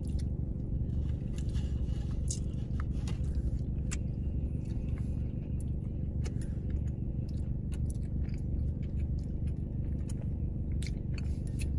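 Someone biting into and chewing a cream-filled doughnut: soft, scattered mouth clicks and smacks over a steady low rumble.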